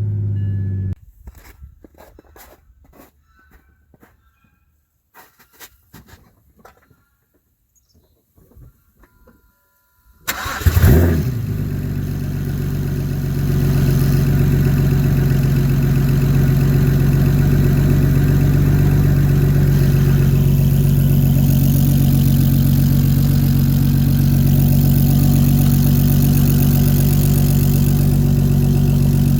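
BMW N54 inline-six running on a Precision 6875 single turbo is switched off about a second in; a few faint clicks follow in the quiet. About ten seconds in it is restarted, flares as it catches, then settles into a steady idle that steps up slightly in level a few seconds later.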